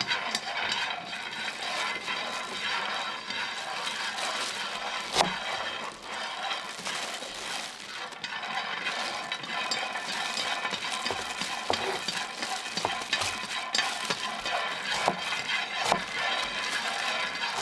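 Food being dry-roasted crisp in a hot pan with a steady crackling sizzle, stirred with a spatula that now and then clinks and scrapes against the pan.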